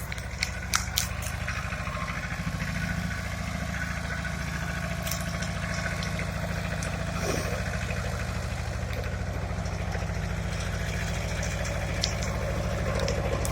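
Pasquali tractor engine running steadily at idle, with a few sharp clicks in the first second.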